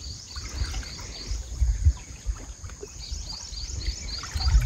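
A bird chirping in two quick runs of short high notes, about five a second, over a low rush of river water with a few dull thumps.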